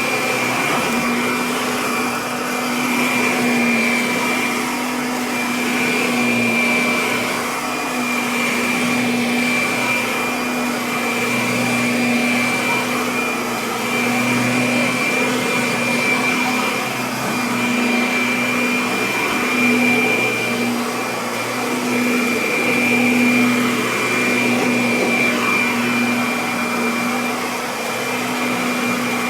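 Kirby Avalir upright vacuum cleaner running continuously, a steady motor whine over a rushing airflow, its level swelling and easing gently every couple of seconds.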